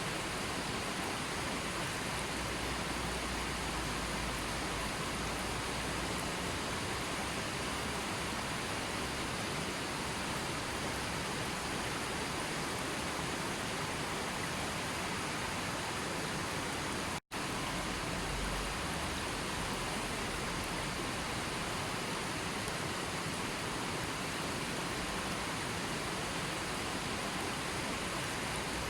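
Steady, even rushing of water with no pitch or rhythm, cutting out for an instant about seventeen seconds in.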